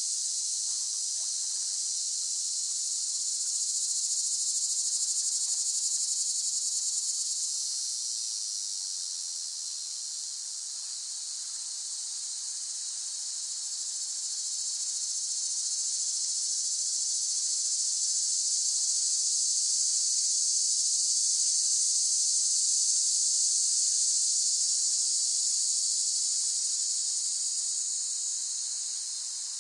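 Cicadas droning in a continuous high buzz. It eases off about a third of the way in, swells again, and fades slightly near the end.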